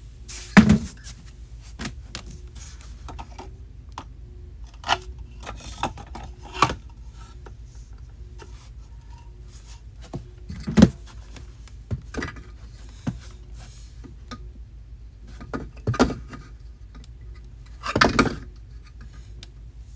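Scattered knocks, taps and rustles of small objects being handled and set down, several seconds apart, over a faint steady low hum.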